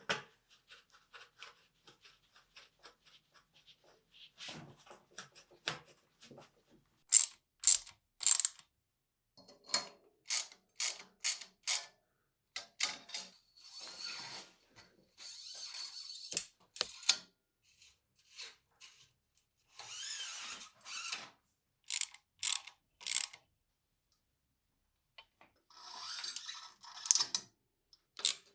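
Irregular sharp clicks and short ratcheting rasps from bicycle parts or hand tools being worked, with a few brief rattling stretches.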